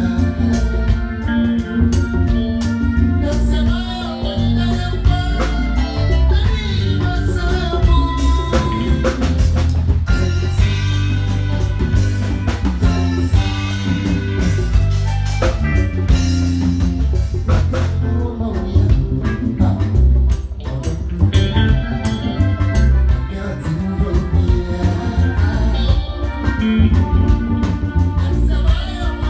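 Loud band music with drum kit, bass and guitar, and singing in places.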